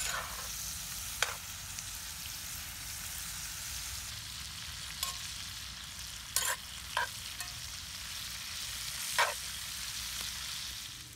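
Green beans and mushrooms sizzling in a cast-iron skillet, with a handful of short scrapes and clinks as a metal utensil stirs them against the pan.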